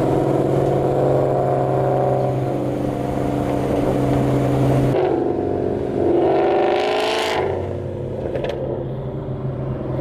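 Ford Mustang GT V8 exhaust with long-tube headers, an X-pipe, Roush axle-backs and no resonators. It runs steadily, then revs up about six seconds in and drops off again.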